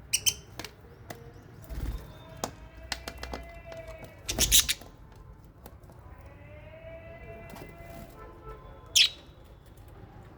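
Lovebirds and budgies in an aviary: bursts of wing flapping, the loudest about four and a half seconds in, among drawn-out pitched calls. A single sharp falling call comes near the end.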